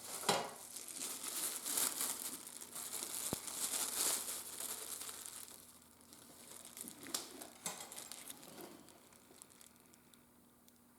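Rustling, crinkling handling noise from materials being worked at a leatherworking bench, busiest through the first half and then dying down to a few sharp clicks and taps.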